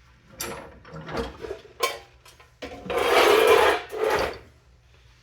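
Handling noises: a few short knocks, then a scraping rasp that lasts about a second, from about two and a half seconds in.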